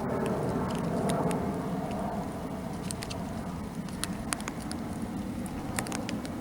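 Steady low rumble of passing road traffic slowly fading, with scattered sharp taps of light rain starting to fall, a few drops a second.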